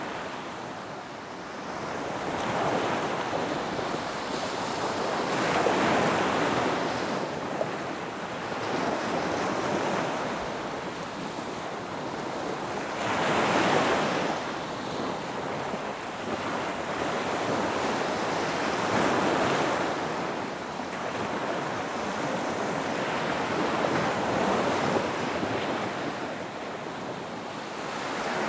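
Ocean waves breaking and washing up a beach, one after another, each swelling and ebbing every several seconds over a continuous hiss of surf.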